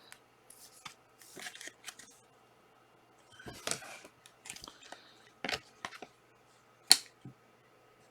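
Panini Prizm trading card packs being torn open and the cards handled: scattered short rustles and soft clicks, with one sharp snap about seven seconds in.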